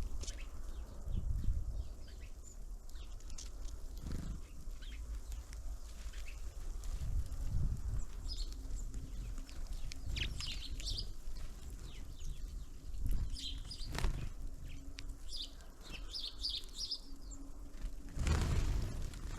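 Small songbirds at a feeder giving scattered short, high chirps, with low thumps and wing flutters and a brief rush of noise near the end.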